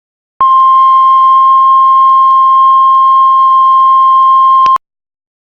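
Heart monitor flatline tone: one steady high beep starting about half a second in, held for over four seconds and then cutting off suddenly. It is the sign that no heartbeat is being detected.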